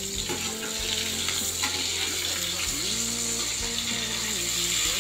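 Hot oil sizzling steadily as a fritter of wet baby anchovies and egg fries in a pan, with a few sharp clicks of a metal spatula against the pan.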